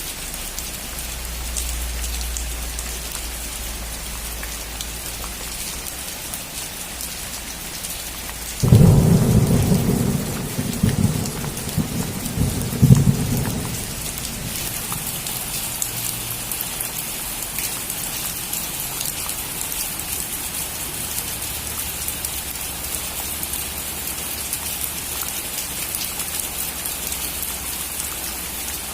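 Steady rain falling on a roof, with a clap of thunder about nine seconds in that rumbles on with a second peak for about five seconds before fading back under the rain.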